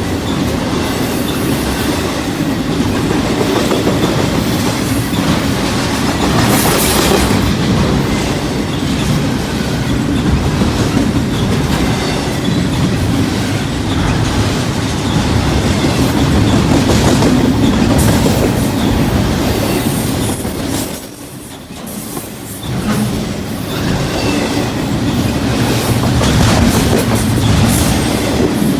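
Freight train cars rolling past at speed: a steady, loud rumble and clatter of steel wheels on rail, with a brief lull about two-thirds of the way through.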